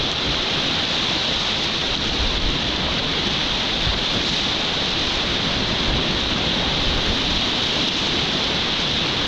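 Whitewater rapids rushing steadily and loudly, an unbroken wash of moving river water.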